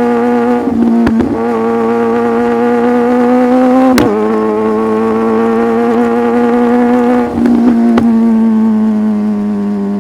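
Sport motorcycle engine running under way at steady revs. Its note creeps slowly upward, then steps down with a sharp click about four seconds in, and eases lower again near the end.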